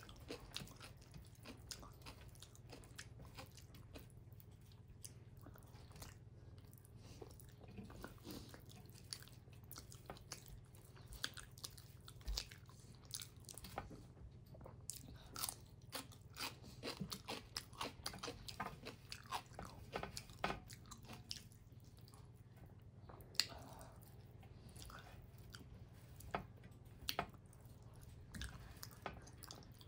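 Close-miked eating sounds of a person eating millet dhindo and greens by hand: wet chewing and mouth smacks, many short irregular clicks. A faint low hum runs underneath.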